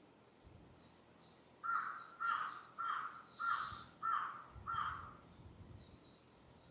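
A crow cawing six times in an even series, about one caw every 0.6 seconds, with faint chirps of small birds behind it.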